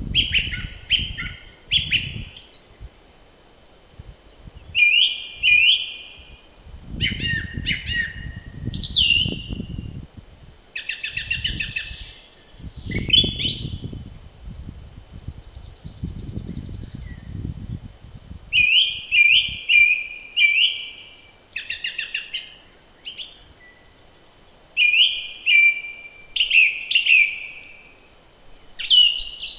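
Songbirds singing in spring, several birds overlapping with short repeated chirps and trills. Gusts of wind rumble on the microphone now and then, the longest from about a quarter to over half way through.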